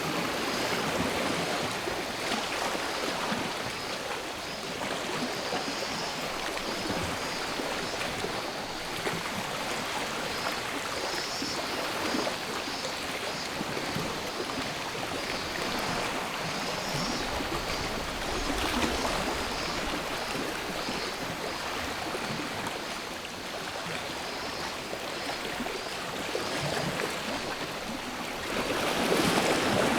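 Sea waves washing and surging onto a shore, one wave noticeably louder near the end, with cicadas buzzing faintly in a high band.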